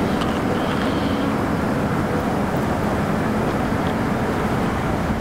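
High-speed train passing at speed close by: a steady rush of air and wheel noise with faint whining tones.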